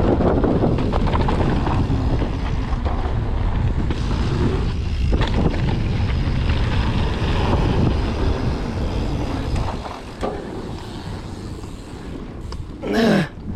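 Wind buffeting the camera microphone over the rumble and rattle of a mountain bike on a downhill trail, easing off about ten seconds in. A brief pitched sound comes near the end.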